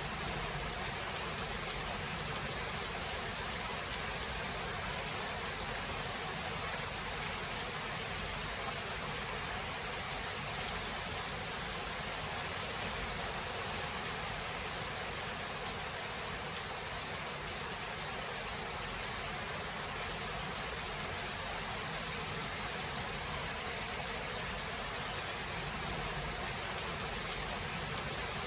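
Steady rain falling, an even hiss, with a couple of brief sharp drop ticks; no thunder is heard here.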